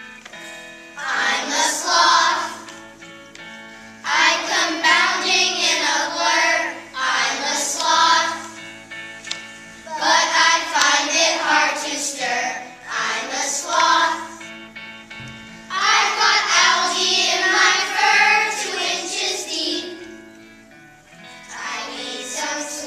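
A class of young children singing together to an instrumental accompaniment, in phrases of a few seconds separated by short breaks.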